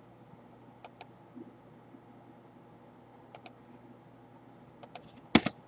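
Four pairs of short, sharp clicks from a computer being operated, spaced a second or more apart, the last pair the loudest near the end, over a faint steady room hum.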